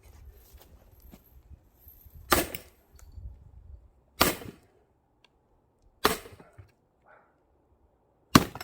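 Axe blows splitting firewood logs: four sharp strikes of the axe into wood, about two seconds apart.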